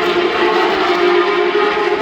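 Racing car engine running at high revs on the circuit, a steady, loud high-pitched note that barely changes.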